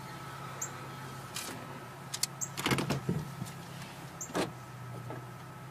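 Car idling with a steady low hum, broken by a few short knocks and a brief clatter about halfway through.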